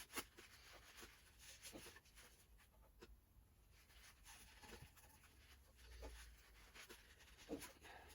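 Near silence with faint, scattered small clicks and light scraping, like parts being handled and rubbed on a bench.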